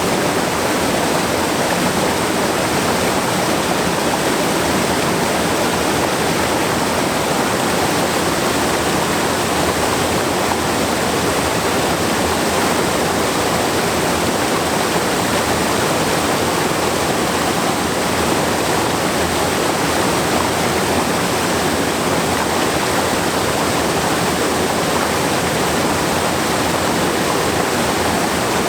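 Waterfall, water pouring and splashing in a steady, unbroken rush.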